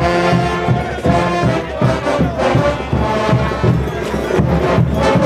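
Brass band playing diablada music, its horns sounding sustained chords over a steady drum beat.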